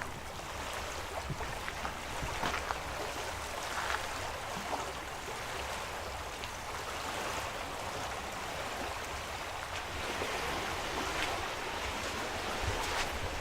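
Lakeshore ambience: a steady rush of small waves lapping, with wind rumbling on the microphone and a few faint clicks.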